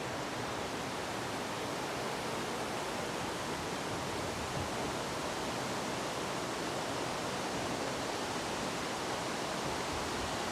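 Wind blowing steadily through trees: an even, unbroken rush of moving leaves.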